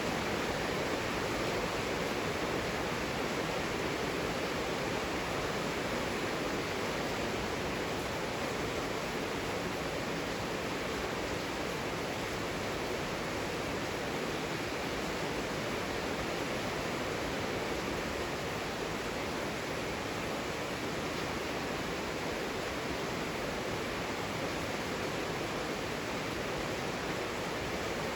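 Heavy rain falling steadily: a dense, even hiss with no distinct drops or thunder.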